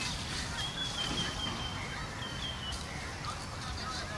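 Forest ambience: a bird holds a thin, high, nearly level whistle for about two seconds, with a few faint short chirps later, over a steady low background rumble.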